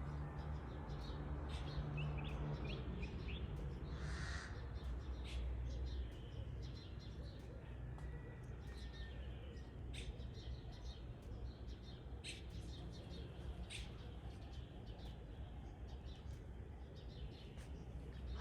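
Wild birds calling: many short, high chirps scattered throughout, with a harsher, raspy call about four seconds in, over a steady low rumble.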